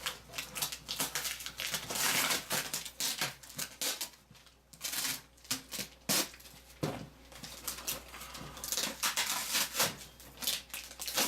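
Cardboard box and packing material being handled and pulled apart: irregular rustling, crinkling and scraping, with several sharp knocks.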